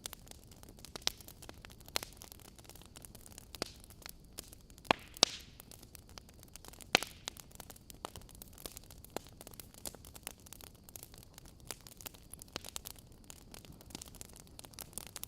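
Wood fire crackling: a low steady hiss broken by sharp pops and snaps at irregular intervals, the loudest a few seconds in.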